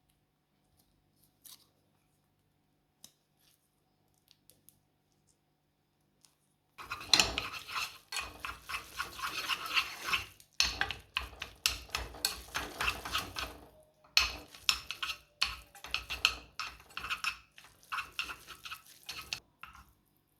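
Rapid brushing or scrubbing strokes, starting about seven seconds in and going in spells with a few short breaks, after some faint clicks.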